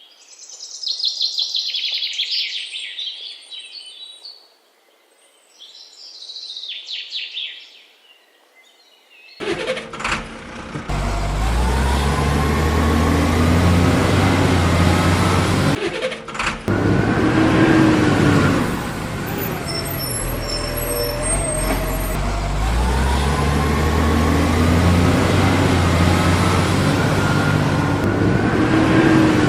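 High chirping for the first nine seconds, then a loud truck engine sound that runs steadily with slow rises and falls in pitch like revving, and a brief break about sixteen seconds in.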